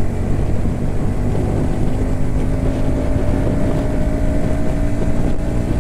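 Bajaj Pulsar NS160 single-cylinder motorcycle engine running steadily at cruising speed, with wind rushing past the helmet camera's microphone.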